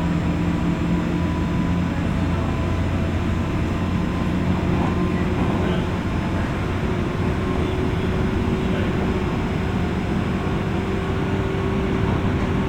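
Interior running noise of a JR West 201-series electric train, heard in motor car MoHa 201 above its armature-chopper control gear: a steady rumble of wheels and traction motors on the track, with faint steady tones riding over it.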